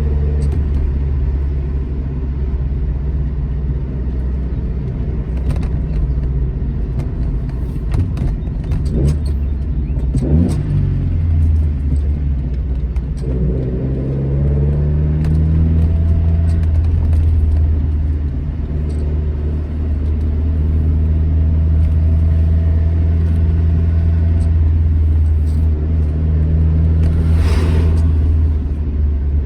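Classic Alfa Romeo GT Junior's twin-cam four-cylinder engine pulling along the road. The revs swing up and drop back around a third of the way in, as at a gear change, then climb again and hold steady, with a brief hiss swelling near the end.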